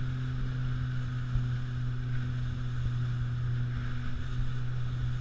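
Pontoon boat underway, its motor running at a steady speed as a constant low hum, over a fluttering low rumble of wind and water.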